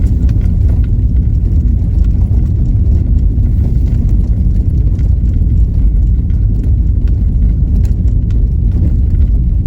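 Car driving slowly over a rough, wet road under repair: a steady low rumble of tyres and engine, with a few light knocks.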